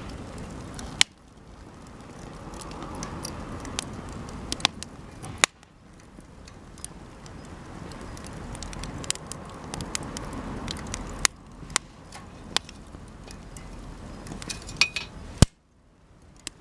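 Cedar offcuts burning in a campfire: a steady crackle of small sharp pops, broken by several loud snapping cracks as the wood bursts.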